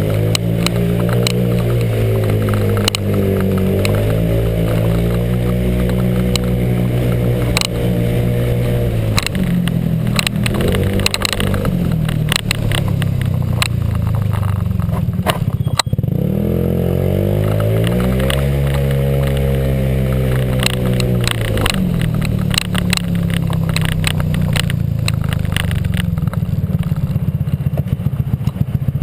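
Honda PCX scooter's single-cylinder four-stroke engine, with a J.Costa variator, pulling under load. Its revs climb and hold, ease off about ten seconds in, climb again about sixteen seconds in, and drop back around twenty-two seconds.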